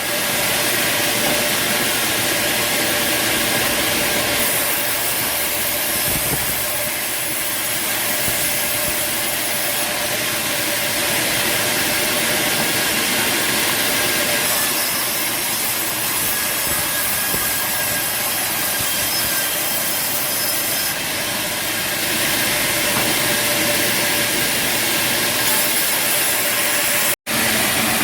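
Band sawmill cutting timber: a steady, noisy saw sound over a running motor, which cuts out for an instant near the end.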